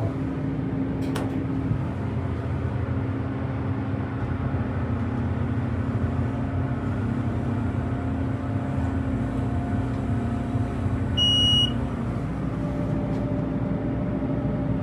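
1996 US Elevator hydraulic elevator travelling with a steady mechanical hum from its hydraulic power unit. A single electronic beep about eleven seconds in, likely the arrival chime. Part of the hum drops out just after it as the car slows.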